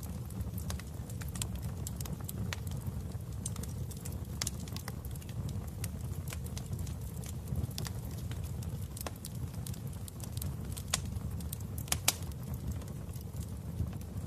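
Wood fire crackling in a fireplace: irregular pops and snaps over a steady low rumble, with a couple of louder pops near the end.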